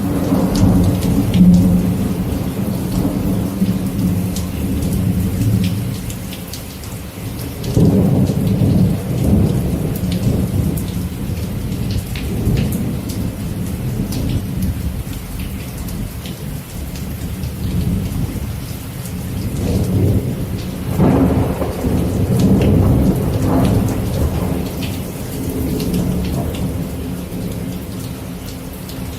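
Steady rain with rolling thunder, the low rumble swelling twice, about a quarter of the way in and again past two-thirds.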